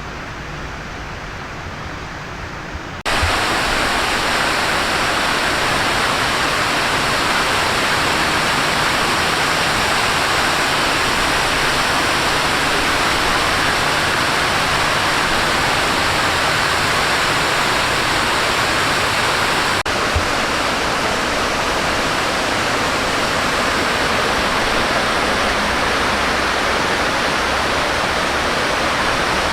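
Steady rush of splashing water from a park fountain, jumping louder about three seconds in.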